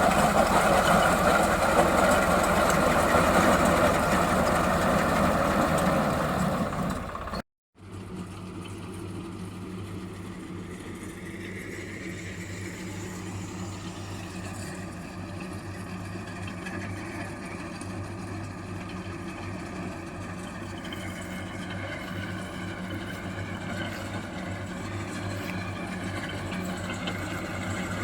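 Swaraj 735 FE tractor's three-cylinder diesel engine running, loud at first. About a third of the way in the sound breaks off abruptly, then the engine comes back running steadily at a lower level.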